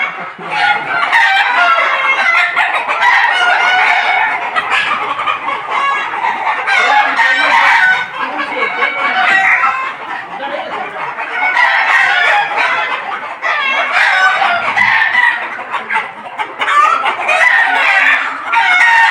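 A large flock of desi chickens and roosters clucking and crowing all at once, a loud, unbroken din of overlapping calls.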